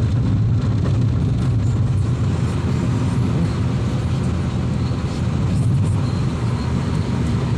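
A car driving: a steady, low engine and road-noise drone.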